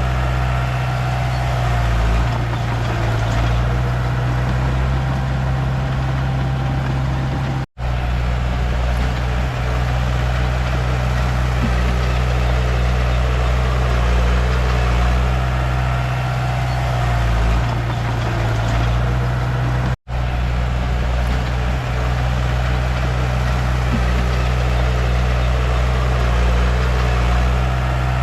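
Komatsu D31P bulldozer's diesel engine running steadily under work, its low note shifting a few times as the load changes. The sound cuts out for an instant twice.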